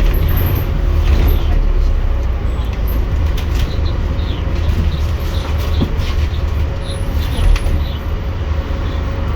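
Scania N230UD double-decker bus's diesel engine running with a steady heavy low rumble.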